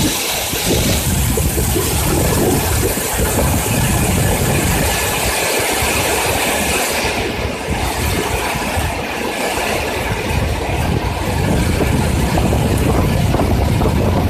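Strong gusting storm wind, rumbling heavily on the microphone and rising and falling in gusts.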